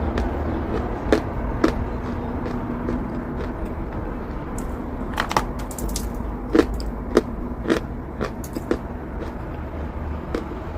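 Chalk being bitten and crunched: irregular sharp, crisp cracks, bunched most thickly in the middle, over a steady low hum.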